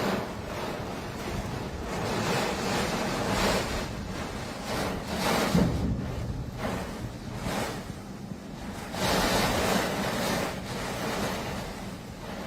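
Storm wind blowing in gusts, a rushing noise that swells and fades every second or two, with the wind buffeting the microphone.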